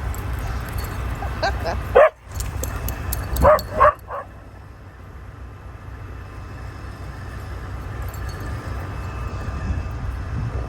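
Dogs barking and yipping in play: a handful of short barks between about one and four seconds in, the loudest about two seconds in. A low steady rumble runs underneath.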